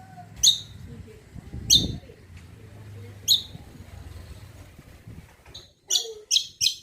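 Cucak kombo bird calling: short, sharp, high notes that drop in pitch, repeated about every one and a half seconds, then three in quick succession near the end. A faint low hum runs underneath.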